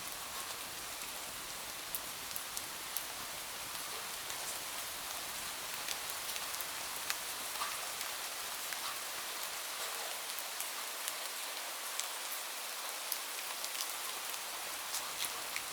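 Steady rain hiss, with irregular sharp ticks over it.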